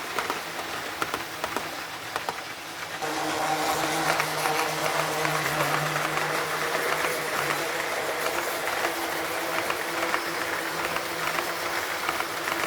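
O gauge model train running on its track, two motorized DD51 diesel locomotives hauling heavy brass 24-series cars: repeated light clicks of wheels over rail joints, joined by a steady motor hum about three seconds in.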